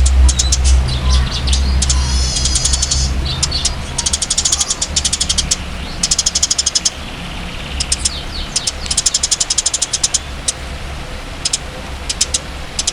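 A songbird singing in long, fast trains of high ticking notes and chattering trills, with short pauses between phrases. A low steady hum runs underneath, loudest in the first three seconds.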